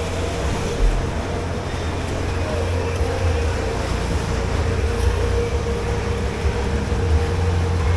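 Steady drone of commercial kitchen machinery, heaviest in the low rumble, with a constant hum and a few faint clicks.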